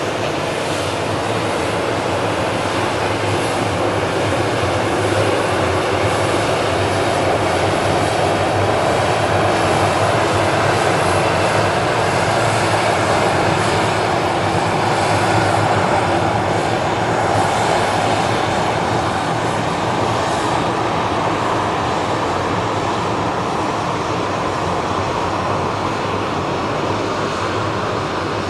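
Boeing 737-800 jet engines (CFM56-7B turbofans) running with a steady, loud noise that swells a little in the middle and then eases slightly.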